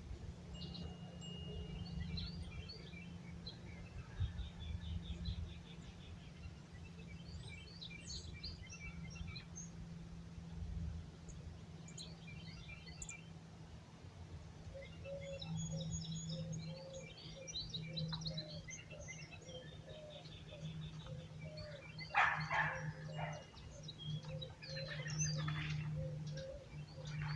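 Several songbirds chirping and singing at dawn, short calls overlapping throughout, with louder calls about two-thirds of the way through. A steady low hum runs underneath.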